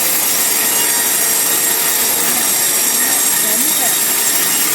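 Band sawmill blade cutting steadily through a large log, making a constant, even, high-pitched sawing noise.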